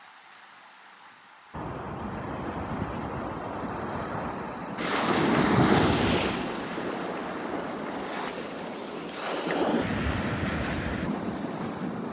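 Small ocean surf breaking on the beach, with wind buffeting the microphone. The sound starts suddenly after a quiet first second and a half, and two louder waves break about five and about nine and a half seconds in.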